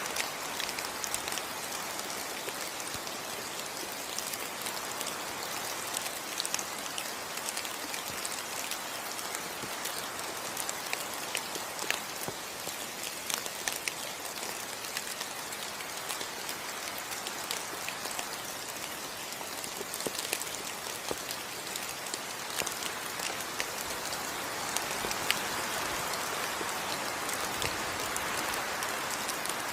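Steady tropical rain falling on rainforest foliage, a constant hiss dotted with the crisp taps of individual drops, growing a little heavier near the end.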